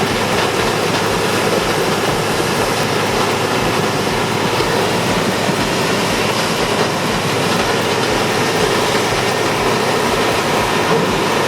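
Heavy machinery running steadily, a loud, dense, unbroken din.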